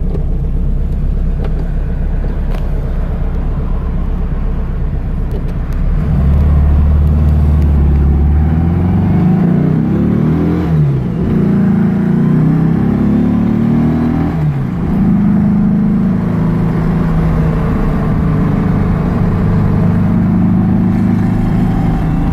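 A 1970 VW Baja Beetle's air-cooled 2276cc flat-four engine, heard from inside the car. It pulls hard from about six seconds in and revs up through the gears, with two brief dips at the shifts, then runs steadily at cruise.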